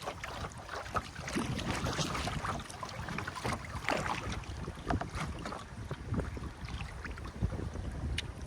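Water splashing and dripping around a kayak and its paddle in short, irregular splashes, with wind rumbling on the microphone.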